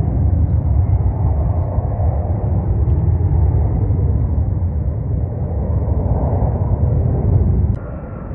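Boeing 737 MAX 8's CFM LEAP-1B jet engines giving a steady, heavy rumble as the airliner arrives. The sound cuts off abruptly near the end.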